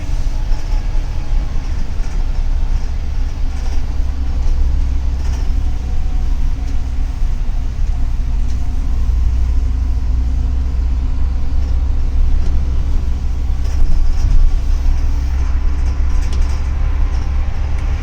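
Double-decker city bus under way, heard from inside the cabin: a steady low rumble of engine and road noise.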